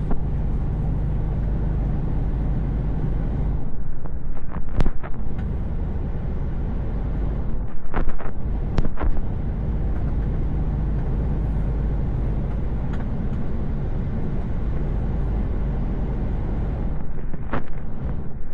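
Truck engine and road noise heard from inside the cab while driving on the motorway: a steady low drone with a hum underneath, broken by a few sharp clicks or knocks scattered through.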